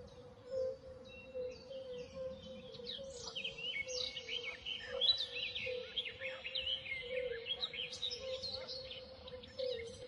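Many birds chirping and calling over one another, busiest in the middle, over a steady faint hum.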